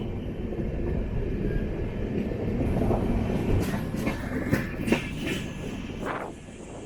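Passenger train coach running along the track: a steady low rumble with a run of sharp clicks from the wheels over the rail joints in the middle, growing quieter about six seconds in.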